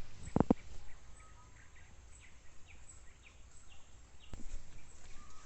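Faint birdsong: a series of short, high, falling chirps repeating every half second or so over a quiet forest background. Two dull thumps come about half a second in, and a sharp click comes near the end.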